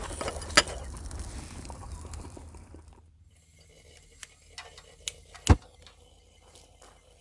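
Sizzling hiss from cooking over a campfire that stops abruptly about three seconds in. It is followed by a few sharp clicks and one loud knock at about five and a half seconds.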